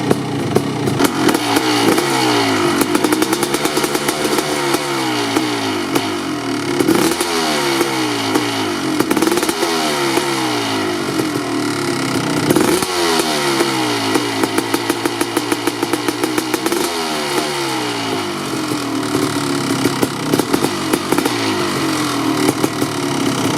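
Kawasaki KX500's single-cylinder two-stroke engine, through an FMF Gnarly expansion chamber, revved in sharp throttle blips about four times, the revs sinking slowly back toward idle after each.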